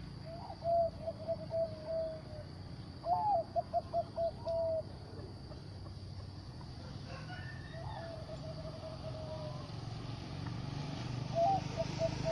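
Zebra dove cooing, a bird kept for its big voice: four phrases, each a slightly higher opening note followed by a quick run of short coos at an even pitch, with pauses of a few seconds between phrases.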